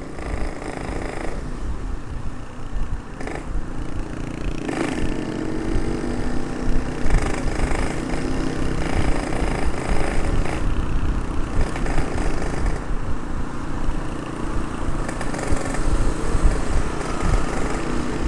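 Yamaha RX-King 135 two-stroke single-cylinder engine running under way, with rumble of wind on the helmet-mounted camera; its pitch climbs a few seconds in as it accelerates.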